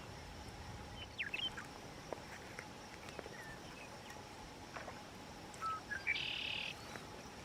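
Wild songbirds calling: a few short chirps and whistled notes, then a short buzzy trill near the end.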